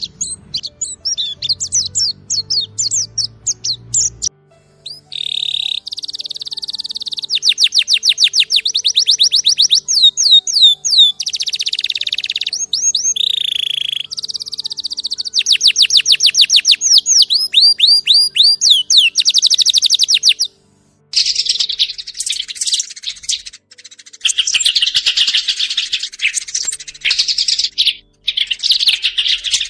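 Small birds singing: fast, repeated high chirps and rapid trills, in several stretches that stop and restart abruptly.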